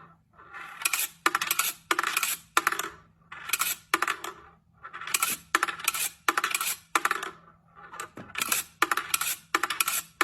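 Sharp metallic clinks repeating in a regular pattern, about every second and a half, each group led in by a short swelling rush.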